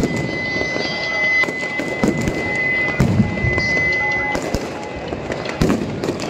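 Fireworks going off: a dense run of cracks and pops, with a steady high whistle over the first four seconds or so.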